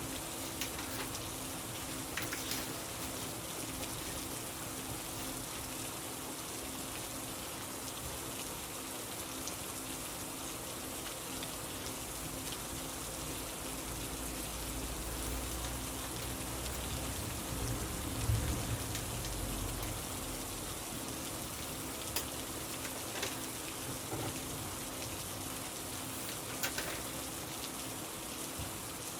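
Steady rain falling, an even hiss of drops, with a few faint ticks scattered through it and a soft low thump about two-thirds of the way in.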